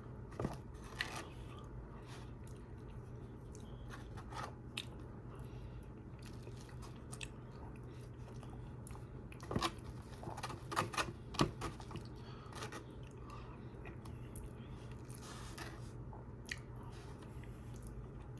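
A person chewing and biting food close to the microphone, with scattered short crunches and mouth clicks and a cluster of louder ones about halfway through, over a steady low hum.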